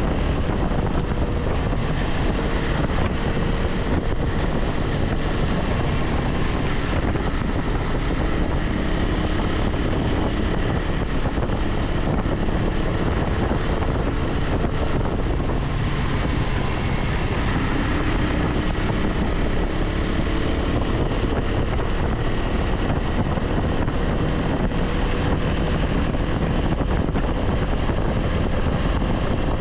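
KTM 390 Adventure X's single-cylinder engine running at a steady cruise, its note held fairly even, under heavy wind noise on the microphone and tyre noise from riding.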